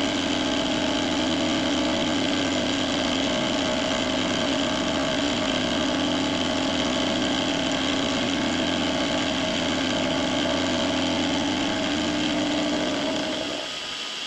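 Precision Matthews PM-25MV benchtop milling machine running steadily during a cleanup pass, a constant motor and spindle whine with several held tones. It winds down and stops near the end.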